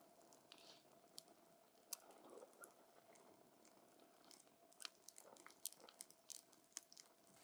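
Wood campfire crackling: scattered sharp pops and snaps of burning wood, irregular, over a faint hiss, with a thin steady tone underneath.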